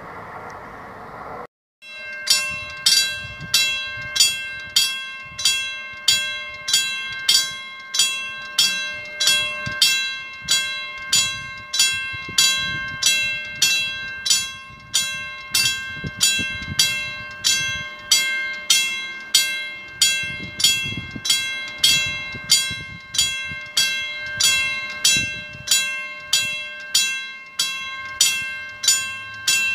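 Railway level-crossing warning bell ringing in fast, even strikes, nearly two a second, each strike ringing on at several fixed pitches. It starts about two seconds in after a brief drop-out, with a faint low rumble underneath.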